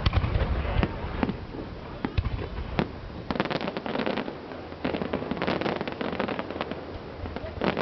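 Fireworks going off: a run of sharp bangs and crackling bursts, with dense clusters of crackle about three and a half seconds in and again around five to six seconds in.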